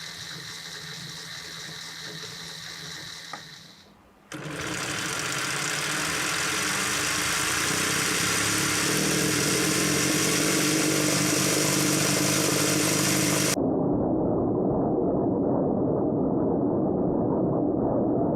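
Lego Technic two-cylinder U-engine model spun fast, its plastic pistons, crankshafts and gears whirring. The whir starts suddenly about four seconds in and builds. Near the middle its upper range cuts off sharply, leaving a duller whir.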